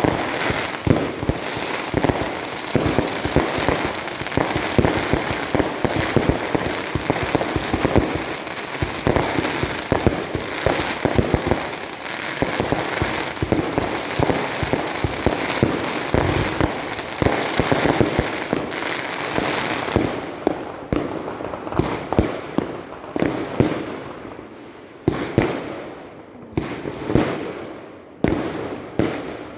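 New Year's Eve fireworks and firecrackers: a dense, continuous barrage of bangs and crackling that thins out after about twenty seconds into separate loud bangs with short gaps, each trailing off.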